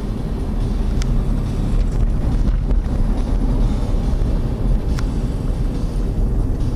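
Wind buffeting the camera's microphone, a loud steady low rumble, with a couple of faint clicks.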